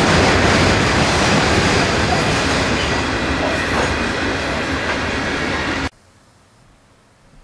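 Freight train cars, mostly covered hoppers, rolling past, their steel wheels running loud on the rails and slowly easing as the end of the train goes by. The sound cuts off suddenly about six seconds in, leaving only faint outdoor background.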